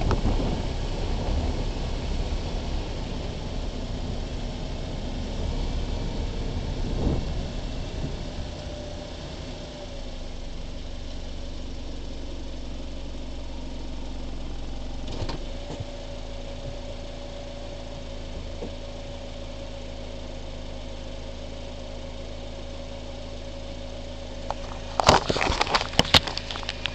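A car engine running, settling into a steady even idle about ten seconds in. Near the end come loud knocks and rubbing close to the microphone as the camera is handled.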